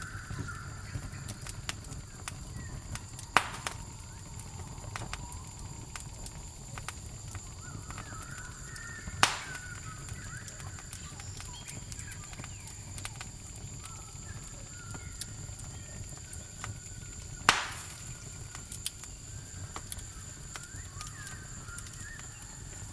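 Campfire crackling with scattered small snaps and a few sharp, louder pops, over a steady high-pitched drone of crickets.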